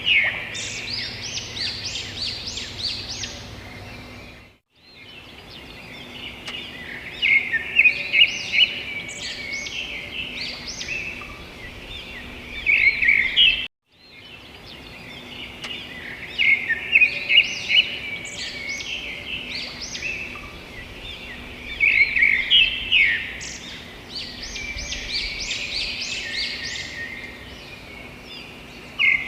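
Birds chirping and singing: bursts of quick, high chirps every few seconds over a steady background of softer calls. The sound cuts out briefly twice.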